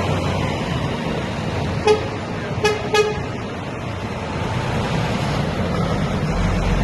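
Truck horn giving three short toots, one and then two in quick succession, over the steady noise of heavy trucks rolling past.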